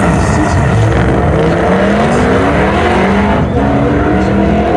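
Modified car's engine pulling hard under acceleration, its pitch climbing steadily, then dropping sharply about three and a half seconds in, as at a gear change.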